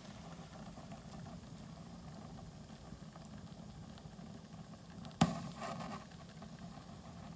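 A single sharp knock about five seconds in, ringing briefly after, over a steady low hum and faint background noise.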